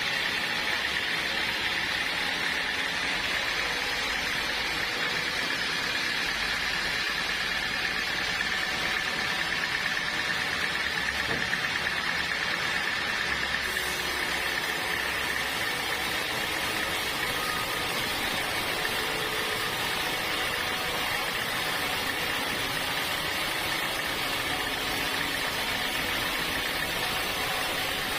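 Sawmill saw cutting through a log of hard acacia wood, a steady high whine over a hiss that holds on without a break.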